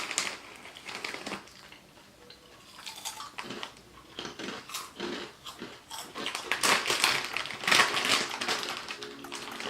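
Crunching and chewing of Nik Naks corn snacks, a run of irregular crisp crunches that gets busier in the second half.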